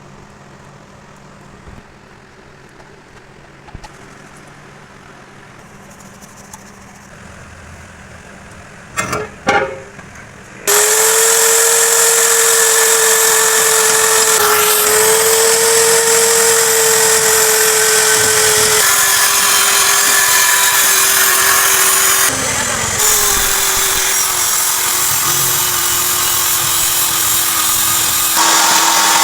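A low steady hum with a couple of knocks. Then, about a third of the way in, a handheld electric power tool starts suddenly and runs loudly under load with a hissing whine. Its pitch sags slowly, with a brief dip about two-thirds in.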